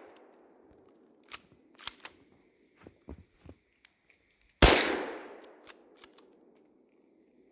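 A rifle shot about halfway through, its report echoing away over a second or so, with the echo of an earlier shot fading at the start. A few small clicks and knocks come between the shots.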